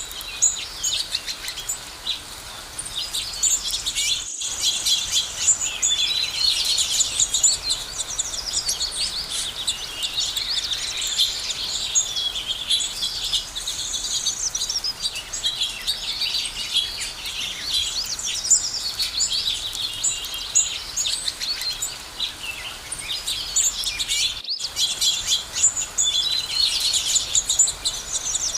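A chorus of many songbirds chirping and singing at once, with overlapping quick twitters throughout. The song briefly cuts out twice, at about four seconds and near twenty-five seconds.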